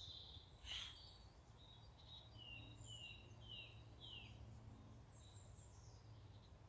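Faint birdsong: a run of short falling chirps in the middle, then a few high thin notes near the end, over a low steady rumble.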